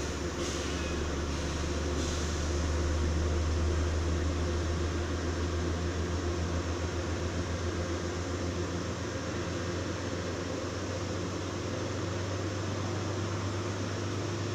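Steady mechanical hum of a standing Metro-North passenger train: a low pulsing engine-and-ventilation drone that swells slightly a few seconds in.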